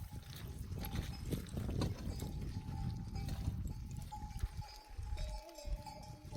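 A grazing flock of sheep and goats with livestock bells ringing and clanking, thin ringing tones coming and going, over a steady low rumble.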